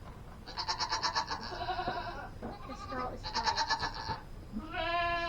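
A goat bleating: two quavering calls of about a second each, then another call starting near the end.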